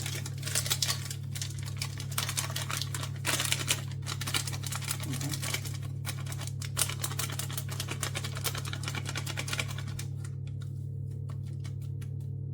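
Rapid clicks and rattles from raw chicken pieces being seasoned and worked in a bowl, busy for most of the stretch and thinning out near the end, over a steady low hum.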